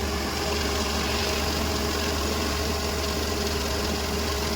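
Diesel engine of farm machinery running steadily at an even speed, a constant low hum with no change in pitch or level.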